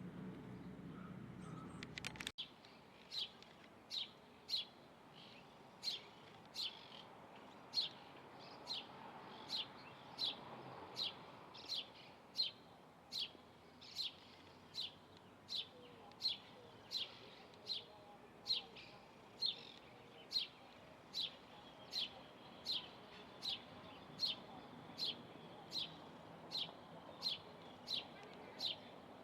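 A single bird calling over and over: one short, high note that sweeps downward, repeated steadily about three times every two seconds. It starts about two seconds in, just after a low background rumble cuts off abruptly.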